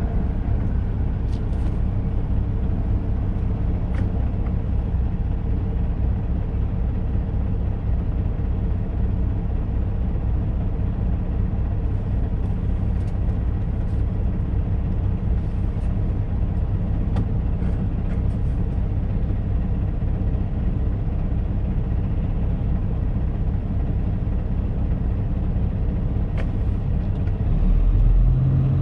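Steady drone of a semi-truck's diesel engine and road noise, heard from inside the cab while driving. Near the end the engine note shifts and grows louder.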